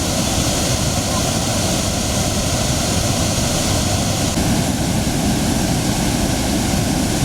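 Rain-swollen water rushing by in a steady, loud, unbroken rush.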